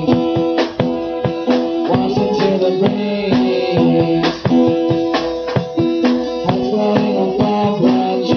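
Live band playing an instrumental passage: guitar chords over a drum kit keeping a steady beat.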